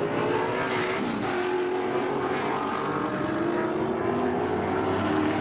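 Engines of several sports sedan race cars running together, their steady notes at different pitches overlapping, some shifting slightly in pitch.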